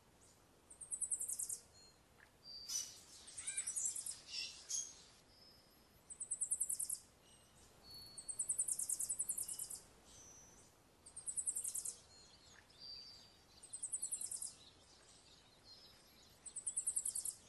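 A small bird singing: a very high, fast trill, under a second long, repeated about every two seconds, with short thin whistles between the trills.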